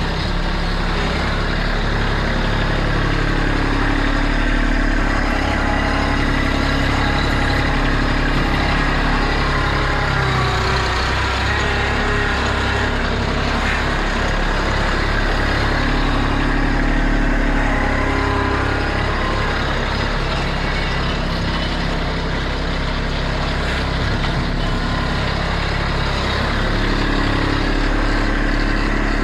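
Kubota B2650 compact tractor's three-cylinder diesel engine running steadily during front-end loader work, its pitch rising and falling slightly as it works.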